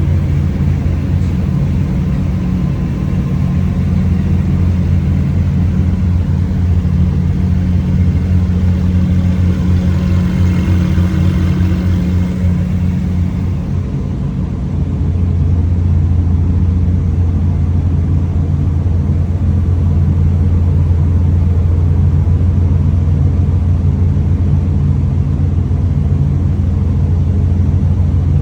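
Car engine idling with a steady, deep rumble. About halfway through it dips briefly, then comes back with a stronger low note.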